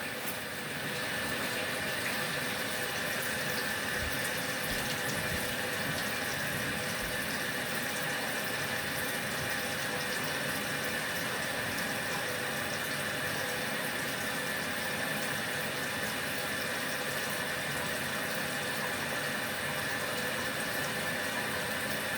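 Water running steadily into a portable washing machine's tub as it refills.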